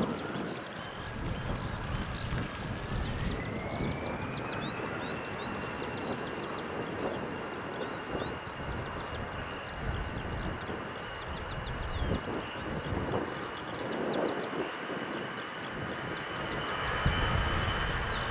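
Airbus A321 jet engines spooling up for takeoff: a high whine rises in pitch over about two seconds, then holds steady over a broad engine rumble.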